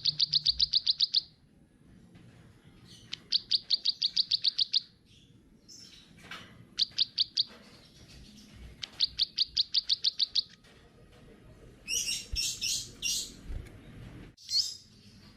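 Small songbird singing in quick trills: four runs of rapid, evenly repeated high notes, each about a second long with pauses between, then a few scratchier chirps near the end.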